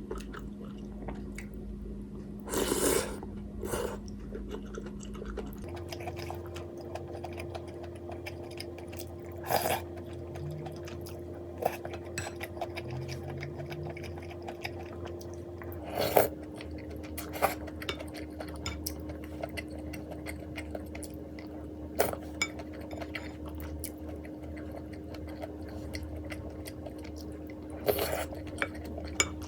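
A person eating instant ramen: scattered short eating noises, with chewing, slurps and clicks of utensils against the bowl, over a steady low hum.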